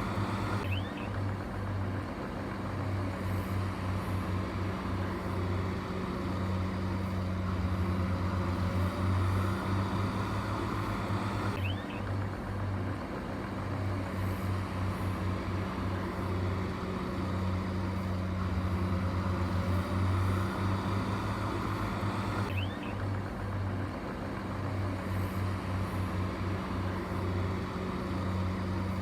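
Diesel engine of heavy earthmoving machinery running steadily with a low hum. The sound changes abruptly twice, about 12 s and 23 s in.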